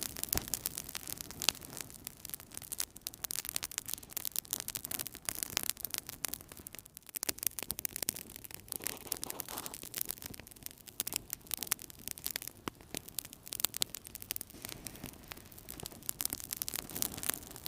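Wood fire burning in a fireplace, crackling and popping constantly with many small snaps over a soft hiss.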